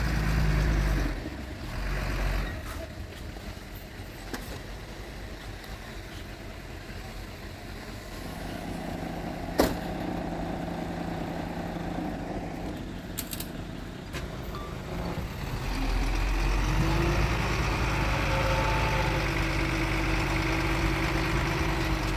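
Heavy diesel earthmoving machinery running: engine sound loud at the start, easing off through the middle with a steady hum, then working harder and louder from about two-thirds of the way in. A single sharp click stands out near the middle.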